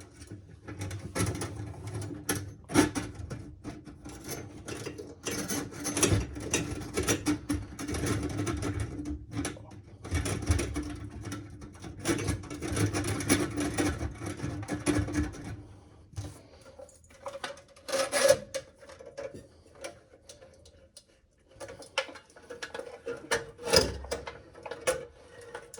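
Hand-cranked drum drain snake being turned and fed into a clogged sink drain: the steel cable rattles and clicks against the drum and pipe, over a steady hum. About sixteen seconds in the rattling thins out to scattered clicks and knocks.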